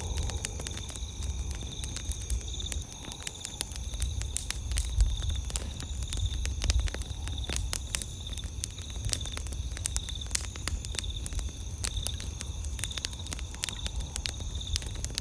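Wood campfire crackling with many sharp irregular pops, over a steady high chirping of night insects such as crickets, with a low rumble underneath.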